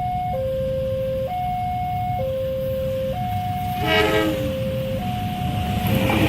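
Level-crossing warning alarm sounding two alternating tones, each held just under a second, over a low steady rumble. A short horn blast sounds about four seconds in.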